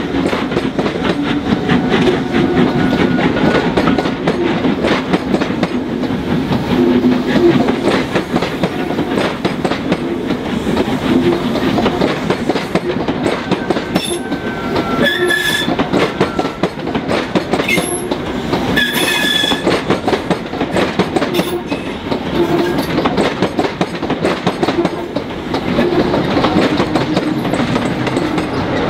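Passenger coaches of a steam-hauled train rolling past close by, their wheels clattering rapidly over rail joints and pointwork. Brief high-pitched wheel squeals come twice, around the middle.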